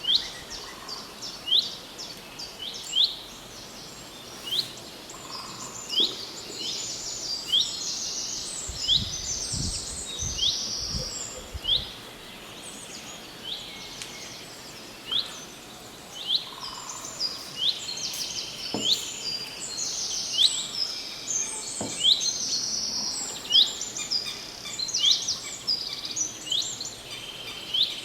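Songbirds chirping over and over: many short, sharp calls that sweep down in pitch, coming in quick clusters. A few low thumps fall about nine to twelve seconds in.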